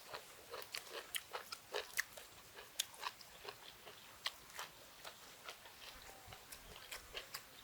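A person chewing a mouthful of food, with quiet, irregular crunches and wet clicks, several a second.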